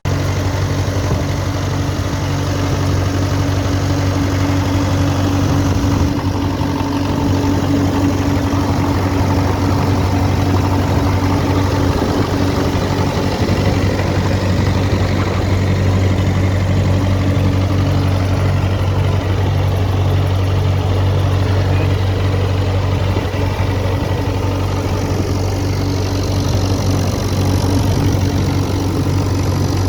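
John Deere 303 vineyard tractor's Standard Motor Company engine idling steadily.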